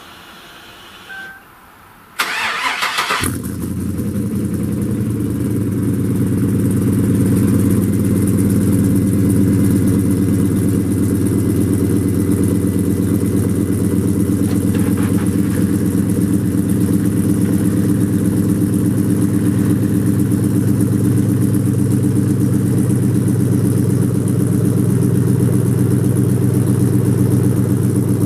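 Hummer H2's cammed 6.2-litre V8 (a rebuilt LQ4 with a stage 2 cam and true dual exhaust) cranking for about a second on a cold start, catching, and settling into a steady idle that grows a little louder over the first few seconds.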